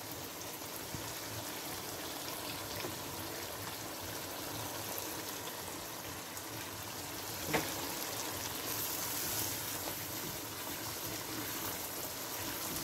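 Lamb curry sizzling and bubbling steadily in a wok, cooked to the stage where the oil has separated from the masala. A single light knock about halfway through.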